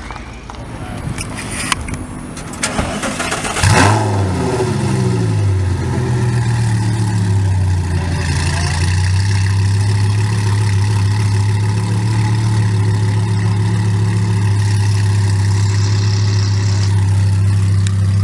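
A car engine starting up: it catches suddenly about four seconds in, the revs flare and then fall away over a couple of seconds, and it settles into a steady idle.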